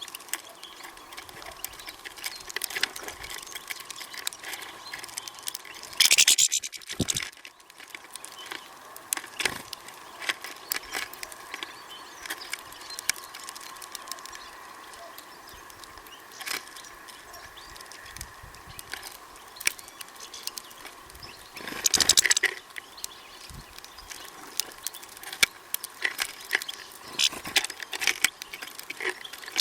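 Birds feeding at a seed feeder: scattered small clicks and taps, with two brief louder rushes of noise, about six seconds in and again about twenty-two seconds in.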